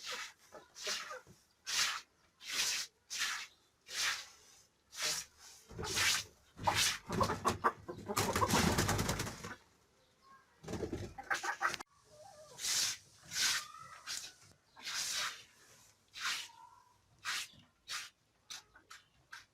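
Broom sweeping in short strokes, one or two a second, with a longer, louder scraping rustle around the middle; chickens cluck now and then.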